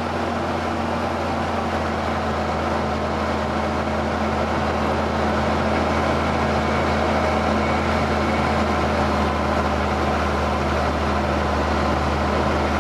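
Ford TW tractor's diesel engine running steadily under load while ploughing.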